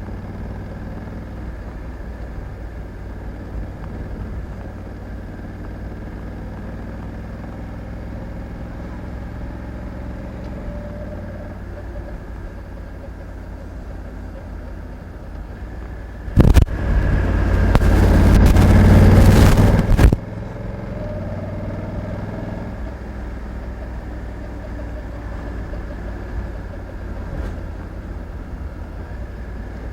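Honda Africa Twin 1100's parallel-twin engine running steadily, a low even drone. About halfway through, a loud rushing noise drowns it out for roughly three and a half seconds and then cuts off suddenly.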